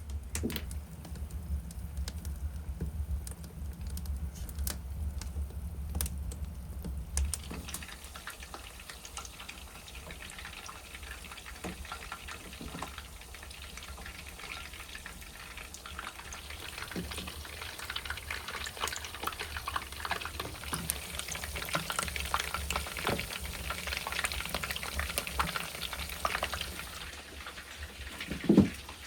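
Food sizzling and crackling in a frying pan, starting about a quarter of the way in, after a stretch of low hum with a few clicks. One loud thump near the end.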